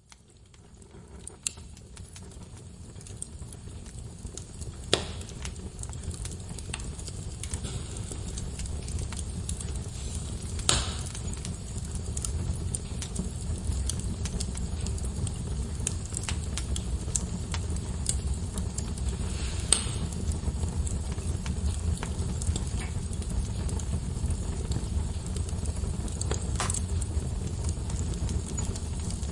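Wood fire burning in a fireplace: a steady low rumble of flames with occasional sharp pops and crackles from the logs. It fades in from silence over the first several seconds.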